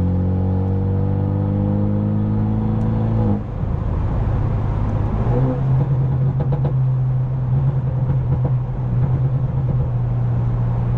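Straight-piped BMW F30 328i's turbocharged 2.0-litre four-cylinder engine pulling in gear, its note rising steadily for about three seconds. It drops on a shift, then carries on at a steadier, slightly wavering pitch.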